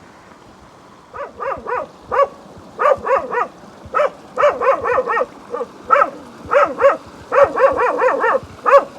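A dog barking repeatedly in quick runs of two to four barks, starting about a second in.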